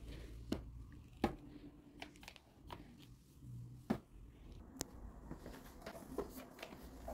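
Kitchen handwork: light clicks and sharp taps of utensils, four of them louder, with soft squishing and crunching sounds between them.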